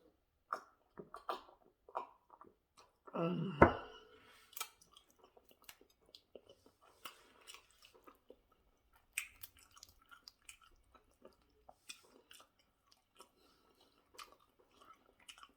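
Close-miked chewing of a person eating roasted catfish and potatoes: a stream of small wet mouth clicks and smacks, with a louder mouth sound and a sharp knock about three and a half seconds in.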